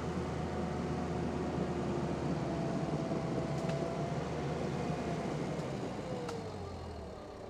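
Skid steer engine running steadily, then dropping in pitch and easing off near the end, with a couple of faint clicks.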